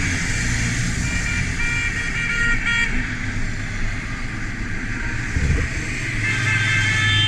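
Motorcycle engine running steadily under wind and road noise, with vehicle horns honking: several short toots in the first few seconds and a longer, held honk starting near the end.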